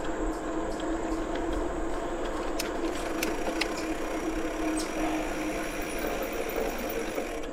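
A bicycle rolling along a paved trail: a steady hum from the tyres and drivetrain with a light rattle, over a low rumble of wind on the microphone.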